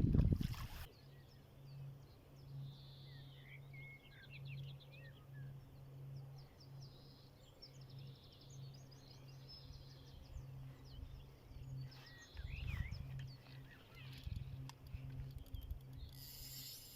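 Several small songbirds chirping and trilling, over a steady low hum and a couple of brief low rumbles.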